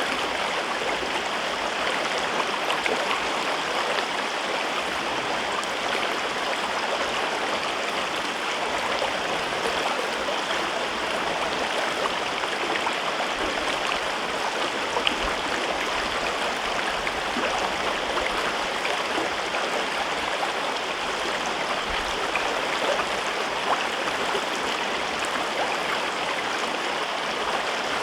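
River water running steadily over rocks through a gorge, a continuous rushing babble with small splashes scattered through it.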